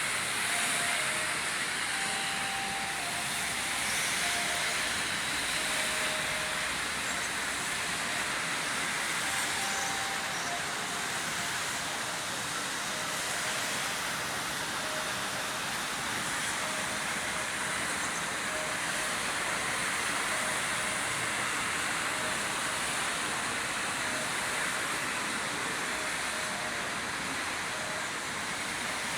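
Steady rainfall, an even hiss of rain without a break, with a few short, faint steady-pitched tones sounding here and there.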